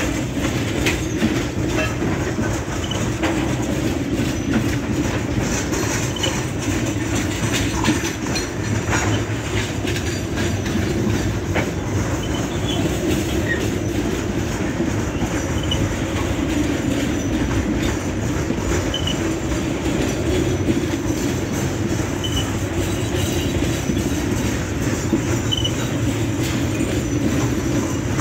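Loaded covered hopper wagons of a freight train rolling past close by: a steady rumble of steel wheels on the rails, with clicks from the wheels passing over rail joints.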